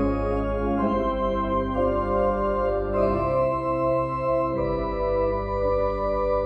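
Organ music: sustained chords over a deep bass line, the harmony changing every second or two.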